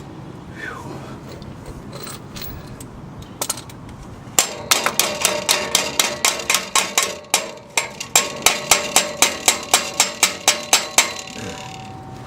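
A hand tool working metal on a car's exhaust from underneath: after a quiet stretch, a run of sharp metallic clicks or strikes with a ringing tone, about four a second for some six seconds, then stopping.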